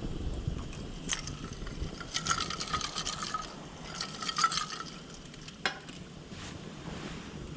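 Spoon stirring and scraping inside a metal mess tin, in two spells of about a second each with a ringing metallic note, and a single clink before and after.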